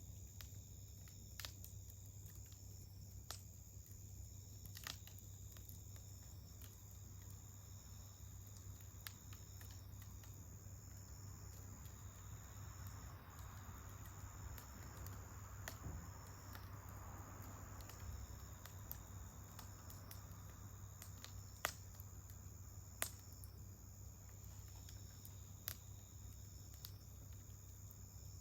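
Wood campfire crackling with scattered sharp pops, three louder ones in the second half, over a steady high-pitched chirring of insects.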